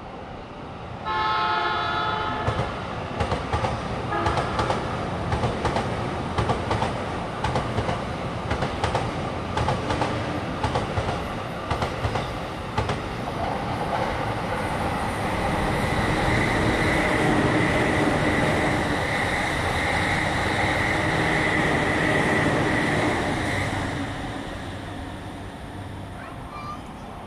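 An electric train sounds a short horn about a second in, then wheels clatter over the rail joints as trains pass below; this gives way to a steady whine from a passing train that grows louder and then fades out near the end.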